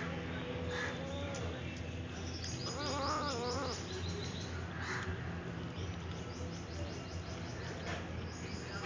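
Birds chirping, with runs of quick high chirps, over a steady low hum; a short wavering call about three seconds in.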